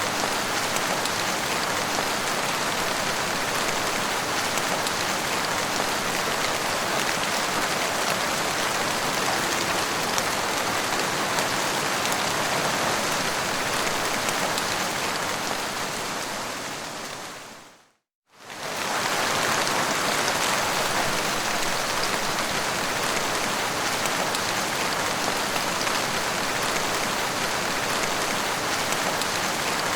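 Steady, dense rain falling. About eighteen seconds in, it fades out to silence for a moment and then fades back in.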